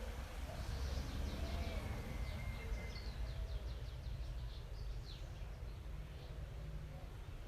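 A bird calling in a rapid series of short, high, downward-sweeping notes for several seconds, over a steady low rumble.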